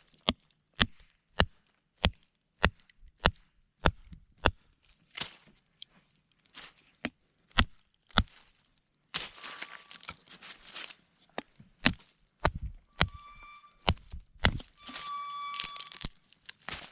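Batoning firewood: a wooden baton strikes the spine of a fixed-blade knife in a steady run of sharp knocks, about one and a half a second, driving it through a log. Later the blows give way to scraping, cracking and brief squeaks as the blade splits through a knot.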